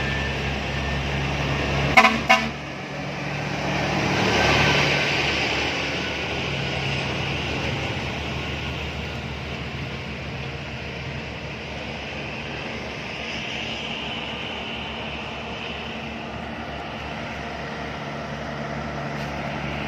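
Heavy trucks running on a mountain road, with two short horn toots about two seconds in. The engine and tyre noise swells as a truck passes at about four to five seconds, then settles to a steady rumble.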